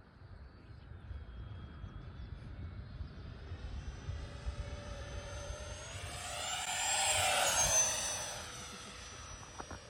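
Freewing Zeus 90mm electric ducted-fan jet making a low pass on 8S power. The fan's whine grows louder, peaks about seven to eight seconds in with its pitch dropping as it goes by, then fades away.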